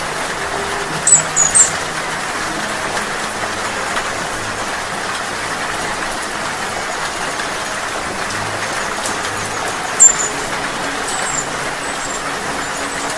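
Steady rain hiss, with a hummingbird's short, very high chips: a quick cluster of three about a second in, and a louder one about ten seconds in followed by a few fainter ones.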